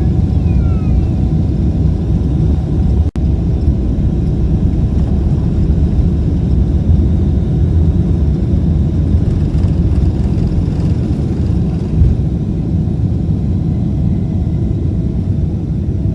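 Jet airliner engines and airframe making a steady low rumble with a faint steady hum above it. The sound drops out for an instant about three seconds in.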